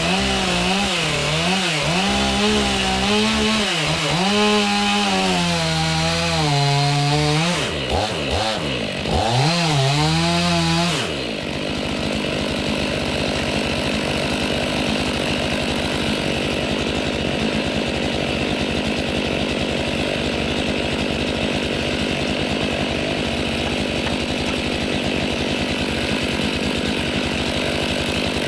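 Chainsaw cutting wood, its engine pitch rising and falling as the saw is revved and bogged in the cut. About eleven seconds in it drops back to a steady, slightly quieter run.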